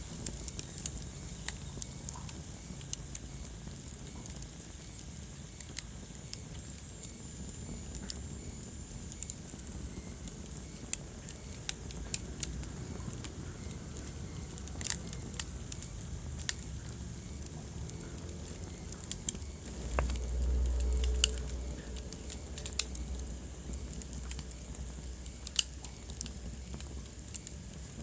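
Wood fire burning in a fireplace: a steady low rumble of flame with irregular sharp crackles and pops from the burning logs, and a brief louder surge of low rumble about two-thirds of the way through.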